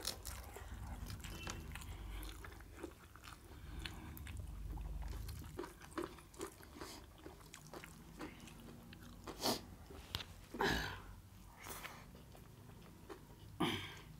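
Close-up chewing and crunching as two people eat rice, mutton curry and crisp papad with their hands. There are small wet mouth sounds and crackles throughout, and a few louder sharp crunches about nine and a half, ten and a half and thirteen and a half seconds in.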